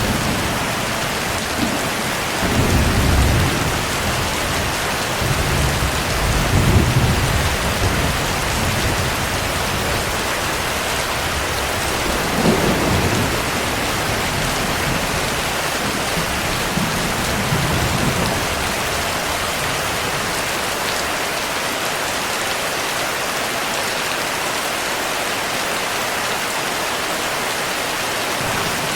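Steady heavy rain with thunder rumbling low several times in the first two-thirds, then only the rain.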